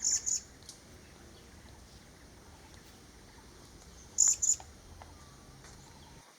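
Vernal hanging parrot calling: two pairs of short, high, sharp notes, one pair right at the start and another about four seconds in. This is the two-note call that Thai birdwatchers liken to the word "sii-sip" (forty).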